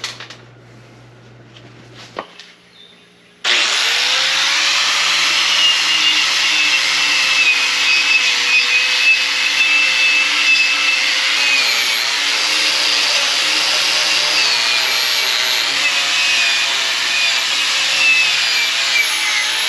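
A power tool's motor running steadily under load with a high whine over a rough, scraping hiss. The pitch wavers slightly as the load changes. It starts suddenly about three and a half seconds in, after a few faint clicks.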